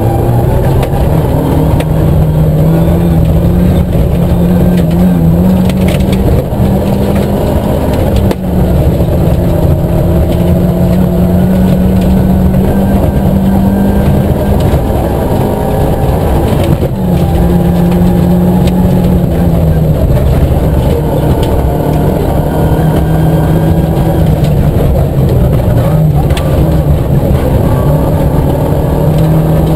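Nissan Micra K11 rally car's four-cylinder engine heard from inside the cabin, pulling hard in third gear, its pitch rising and falling with the revs. The throttle is briefly lifted twice, about eight and seventeen seconds in, over the rumble of the tyres on gravel.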